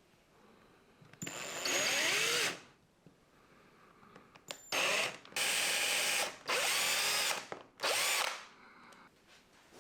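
Handheld power tool running in short bursts while cutting a groove into wood: one run of about a second and a half, then four quick runs in a row, its pitch shifting as the bit bites.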